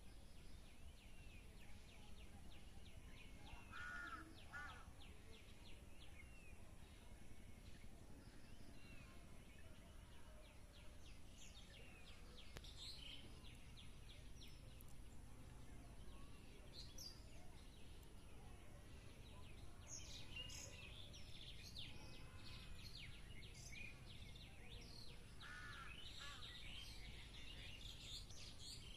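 Faint outdoor ambience: a low steady rumble, with birds chirping now and then in short clusters of quick, high chirps.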